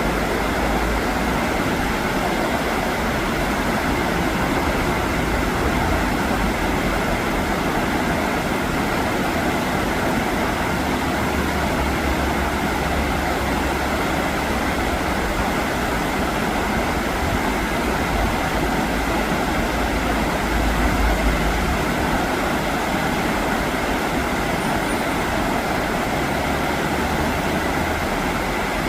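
Rough, fast river current rushing in a steady, continuous noise with a low rumble.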